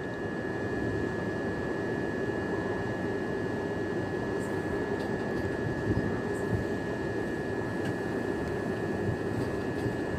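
Class 375 Electrostar electric multiple units standing at the platform: a steady hum with a constant high-pitched whine from their onboard equipment.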